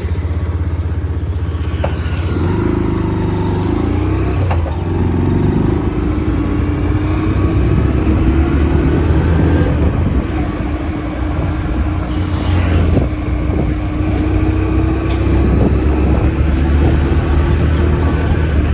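Motorcycle engine running at a steady, slowly shifting pitch while riding, under a heavy low wind rumble on the microphone. A brief whoosh passes about twelve seconds in.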